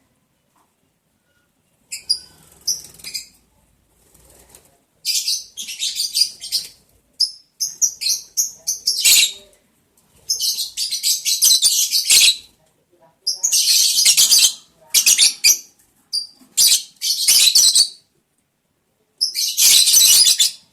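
Lovebirds making repeated harsh, high-pitched bursts of sound, each a second or two long with short gaps between, starting about two seconds in.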